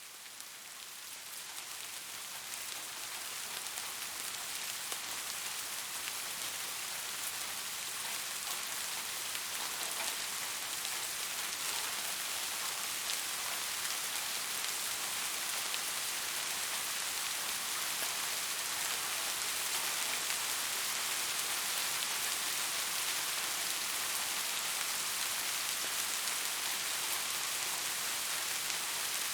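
Rain falling steadily, an even hiss with fine patter of drops. It fades in over the first few seconds and then holds steady.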